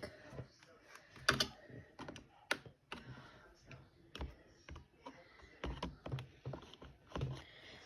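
Scattered plastic clicks and light scraping from a computer keyboard being scraped clean. The clicks come at irregular intervals, the sharpest about a second and a half and two and a half seconds in.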